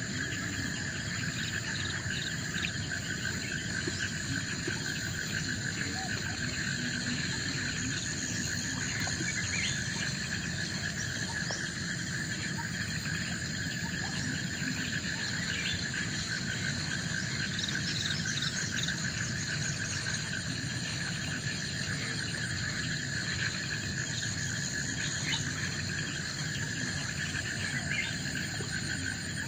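A steady chorus of forest insects, several kinds calling at once at different pitches, with faint short chirps scattered through it.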